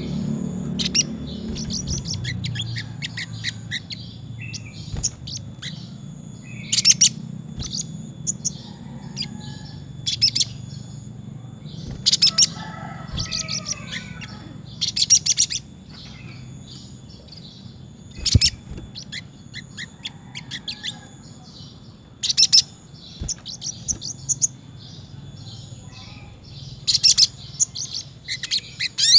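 Little spiderhunter (sogok ontong) singing in repeated bursts of sharp, high-pitched chirps and rapid trills, a second or two apart. A steady low hum runs beneath, louder at the start.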